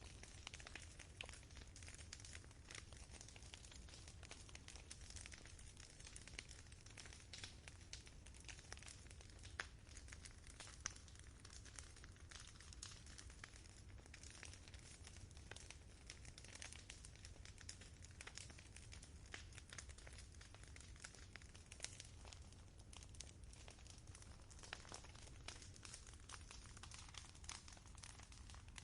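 Faint campfire crackling: frequent small, irregular snaps and pops of burning wood over a steady low rumble.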